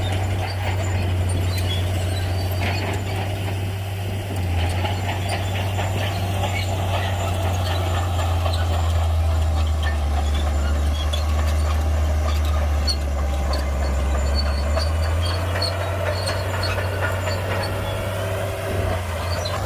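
Shantui bulldozer's diesel engine running with a steady low drone; its note drops about four seconds in and comes back up about fifteen seconds in.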